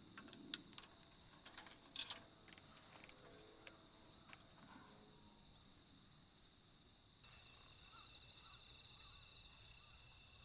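Faint, steady chirring of night insects such as crickets, with a few sharp crackles from a wood campfire in the first two seconds, the loudest about two seconds in. About seven seconds in, another insect joins with a fast, high pulsing trill.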